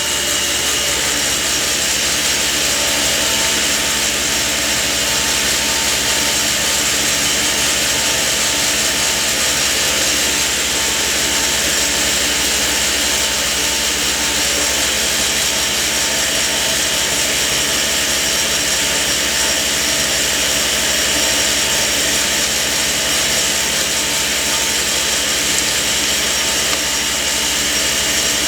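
A woodworking power tool running steadily: a loud, continuous, even noise with a few faint steady tones and no separate knocks or cuts standing out.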